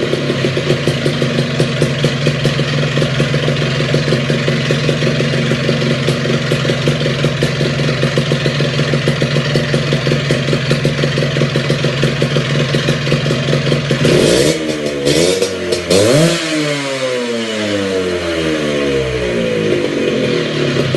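Two-stroke Vespa smallframe engine running through a custom aftermarket exhaust: a steady idle with an even clatter, then two quick throttle blips that rise and fall about two-thirds of the way through, after which the revs wind slowly back down to idle.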